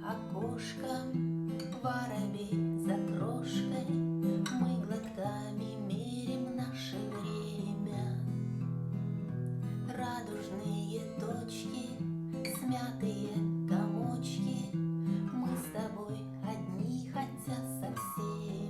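Acoustic guitar strumming chords in a steady rhythm, with the bass note changing every few seconds as the chords change. The chords are most likely the song's Am–C–F–E progression.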